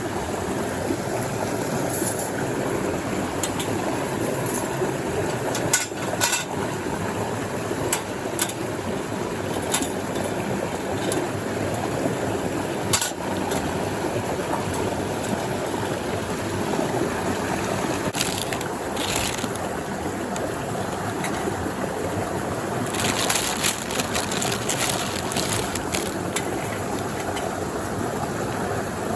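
Mountain stream water rushing steadily, with scattered short clicks and crunches over it, the densest about two-thirds of the way in.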